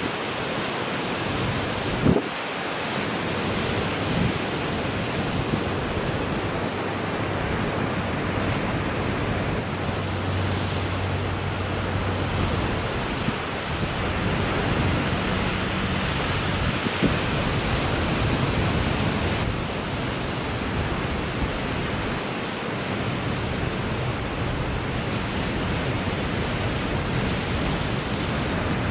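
Ocean surf breaking and washing in a steady rush, with wind buffeting the microphone and a single sharp knock about two seconds in.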